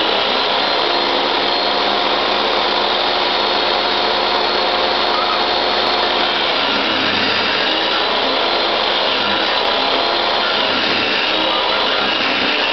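Table saw running steadily at full speed, its motor and blade giving a loud, even whine, with a slight change in tone about six seconds in.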